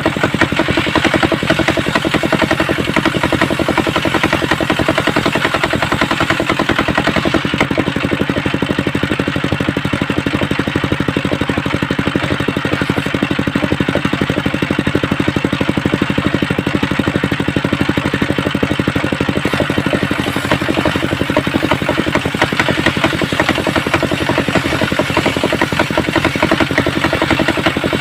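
Combustion engine driving a homemade circular sawmill, running steadily with a rapid, even pulsing.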